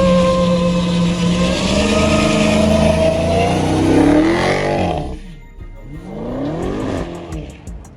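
Car engine held at high revs with tire squeal, as in a burnout. The pitch sweeps down about four seconds in and the sound drops away. Softer rev glides follow.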